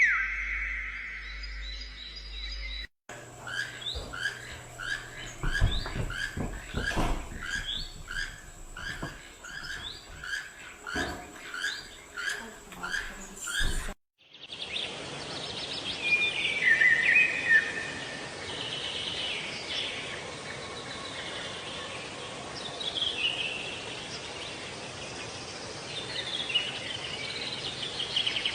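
Birds calling in separate recordings with abrupt cuts between them: one bird repeats a short chirp nearly twice a second, then after a sudden cut another bird sings a varied run of chirps and trills.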